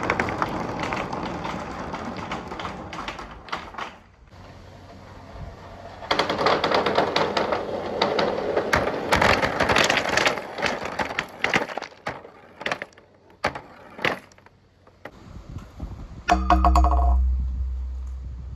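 Marbles rolling and clattering down a marble run track: two long spells of dense rattling, then a few separate clicks. Near the end comes a loud, low thud with a brief ringing tone.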